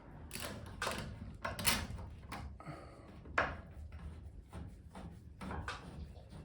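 Irregular knocks, clanks and scrapes of clamps and hardware being handled and set against a wooden joist and steel bracket, with two sharper knocks standing out.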